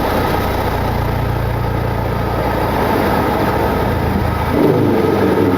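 Boeing 727-200 cockpit noise in the initial climb at takeoff thrust: a steady loud rush of airflow over the three Pratt & Whitney JT8D engines, just after the landing gear is selected up. About four and a half seconds in the deep low rumble drops away and a higher hum takes over.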